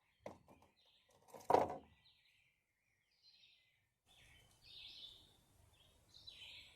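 Small birds chirping in short calls. Two knocks come near the start, the louder about a second and a half in.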